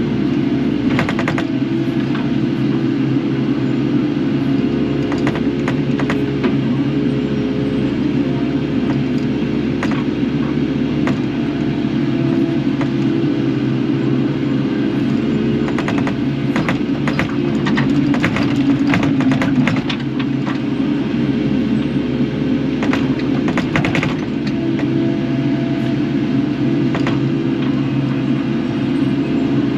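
Kubota KX080 excavator's diesel engine running steadily, with scattered knocks and clanks from the machine at work.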